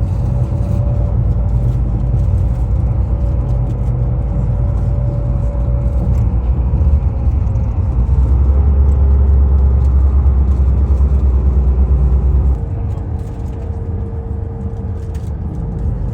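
Steady engine and road rumble inside a moving tour bus, heavy in the low end, with a faint whine that shifts pitch a couple of times. The deep rumble eases suddenly about three quarters of the way through.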